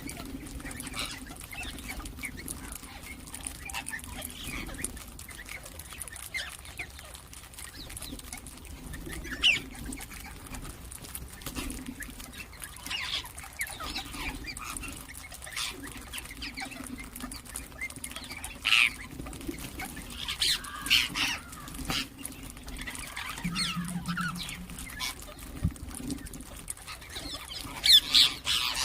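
Ringneck parrots chirping and calling in short, scattered bursts, with a faint low hum underneath.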